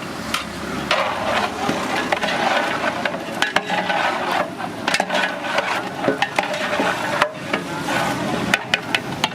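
Metal cooking utensils clattering and scraping: many short, irregular knocks over a steady noisy background.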